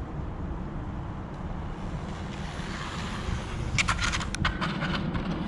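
Wind rumbling on the microphone, with a few brief sharp clicks about four seconds in.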